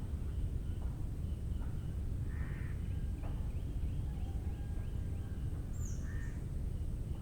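Birds calling in a mangrove forest: a harsh call about two and a half seconds in and another near the end, with a short falling whistle from another bird near the end and faint ticking calls in between, over a steady low rumble.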